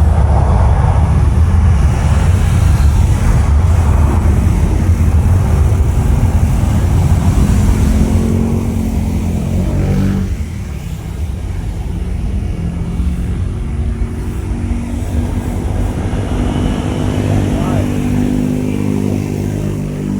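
Jet airliner engines rumbling loudly as the aircraft passes, the noise fading about halfway through.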